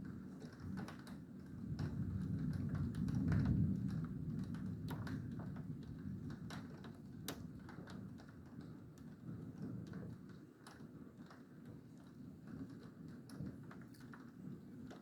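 Thunder rumbling low, swelling about three seconds in and slowly dying away, with scattered sharp taps throughout.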